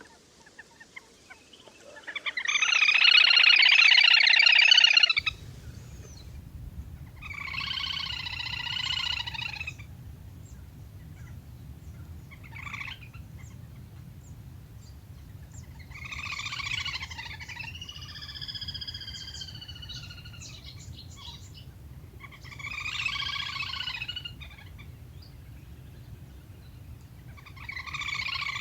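Little grebe calling: a run of trilling, whinny-like calls, each one to three seconds long, coming every five or six seconds, the first the loudest. A steady low hum runs under the calls from about five seconds in.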